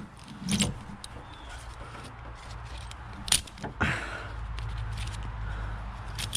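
Ratchet straps being released from tension: a few sharp metallic clicks and knocks, with a low steady hum coming in about two-thirds of the way through.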